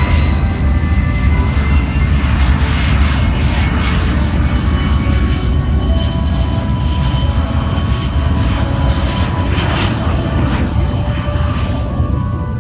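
Airplane engine running, a loud steady drone with several held tones over a deep rumble.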